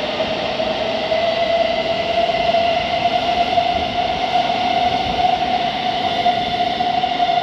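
Thameslink Class 700 electric multiple unit's traction motors whining as it pulls away, one steady tone rising slowly in pitch with fainter higher tones above it, over loud rumbling train noise.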